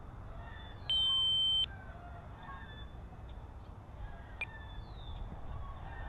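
RC transmitter's flight timer giving one steady high beep about three-quarters of a second long, about a second in, signalling that the set flight time is up and it is time to land.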